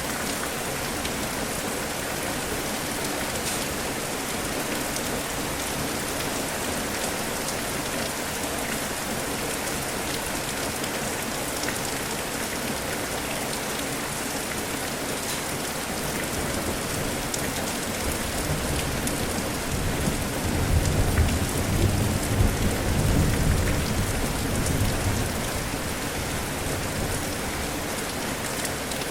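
Steady rain falling, with a long, low rumble of thunder that swells about two-thirds of the way through and fades away after several seconds.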